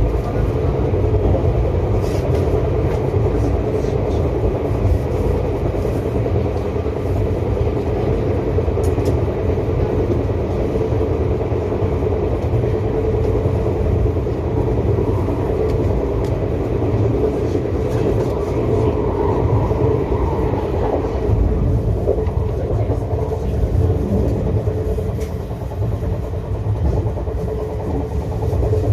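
Izu Kyuko 2100 series 'Resort 21' electric train heard from inside its front car while running: a steady rumble of wheels on the rails with a constant hum, and a few faint clicks now and then.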